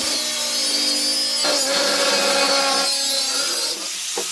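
Power tool running and cutting, with a steady motor tone that shifts in pitch a couple of times as it takes load.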